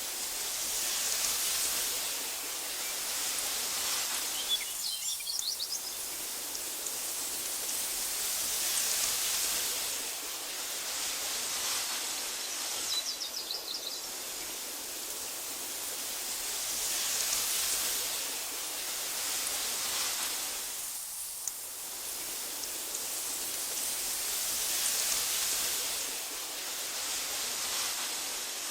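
Wind blowing through tall meadow grass, a steady hiss that swells and eases in slow gusts every several seconds. Two short spells of high chirping come through it, about five and thirteen seconds in.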